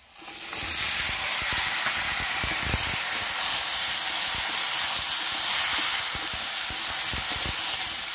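Chopped vegetables tipped into hot oil in an iron wok, bursting into a loud sizzle right at the start and frying steadily, while a steel spoon stirs them with frequent light knocks and scrapes against the pan.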